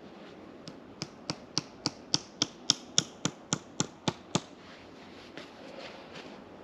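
A run of about fourteen sharp knocks, evenly spaced at about four a second, lasting some three and a half seconds before stopping.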